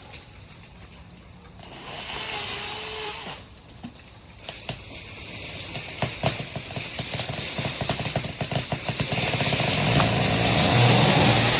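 Magnolia tree going over in felling: wood fibres at the hinge cracking and popping, the snaps coming faster and louder. Then a loud rising rush of leaves and branches as the tree sweeps down.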